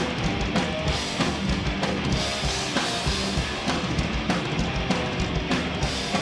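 Live heavy punk band playing loud without vocals, the drum kit's bass drum and snare driving a steady beat under the full band.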